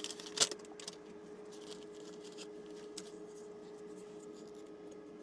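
Electric kettle heating off a Bluetti AC50B portable power station, giving a steady low hum under load. There is a sharp click about half a second in and light scratching, handling sounds over the next couple of seconds.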